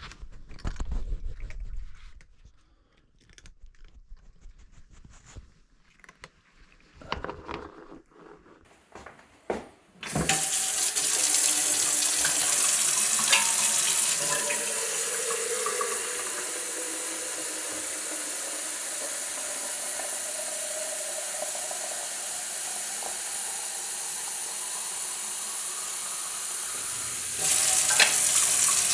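A few scattered knocks and clicks, then about ten seconds in a tap is turned on and water runs steadily into a sink. The running water grows louder again near the end.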